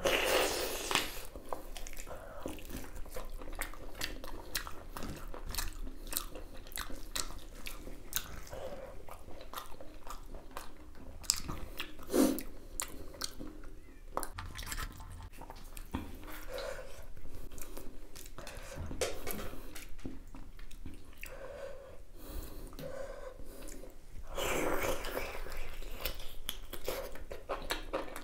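Close-miked mouth chewing beef innards: a steady run of wet clicks and small crunches as the chewy meat is bitten and worked.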